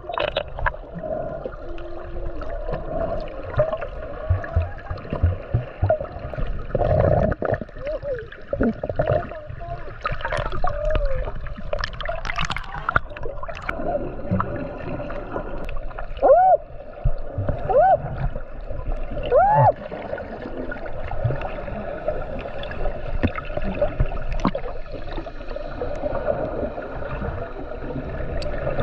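Underwater sound: a steady hum with gurgling bubbles and scattered clicks, and three short arched chirps about two-thirds of the way through.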